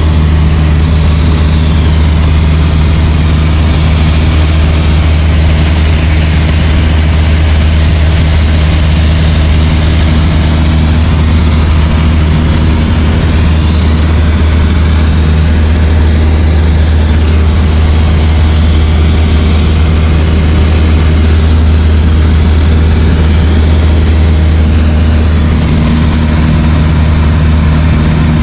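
Light aircraft's piston engine and propeller running at a steady loud drone, with only slight shifts in pitch.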